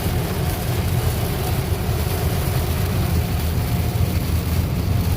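Steady road noise inside a car's cabin while driving in rain: a low, even rumble of tyres and engine with a constant hiss over it.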